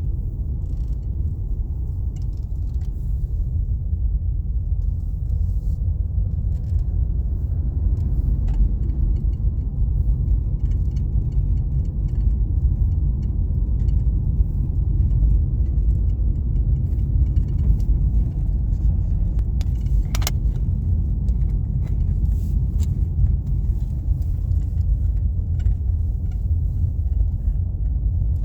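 Car driving along: a steady low rumble of road and engine noise, with light rattles and ticks and one sharper click about two-thirds of the way through.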